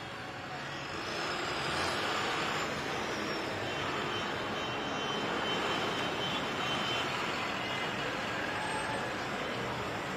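Street traffic noise: vehicle engines running, swelling about a second in with a brief sliding whine as something passes, then holding steady.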